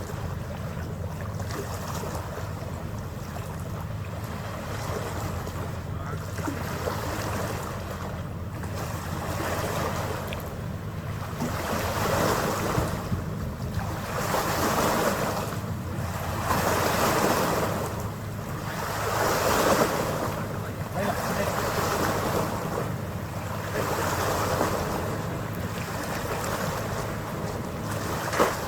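A ferry's engine droning steadily under the rush of water along the hull, which swells in surges about every two and a half seconds from about a third of the way in. Wind buffets the microphone, and there is a single sharp click near the end.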